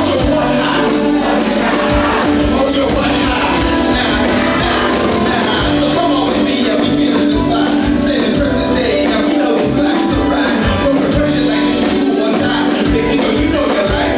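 Loud live band music with drums, playing a stretch of the song without rapped lyrics.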